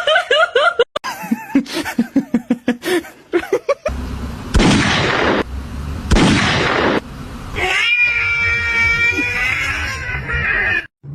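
Cat meowing and yowling: a run of short calls, two loud stretches of noise in the middle, then one long, steady drawn-out yowl.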